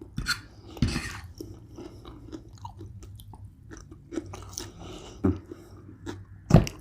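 A person chewing food close to the microphone, with irregular crunching and wet mouth clicks and a few louder crunches.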